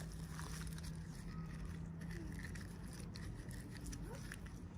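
Faint scraping and small clicks from hands handling toy packaging, over a steady low hum.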